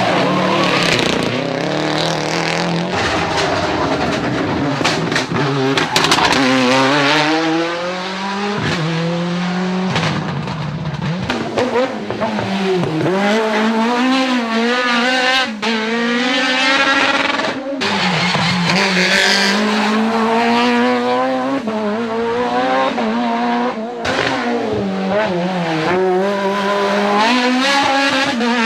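Rally car engine driven hard, its pitch climbing through the revs and dropping sharply again and again as the driver shifts gears and lifts off.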